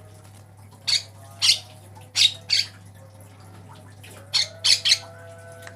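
Javan myna (jalak kebo) giving harsh, rasping squawk calls: four short calls in the first half, then three more in quick succession near the end.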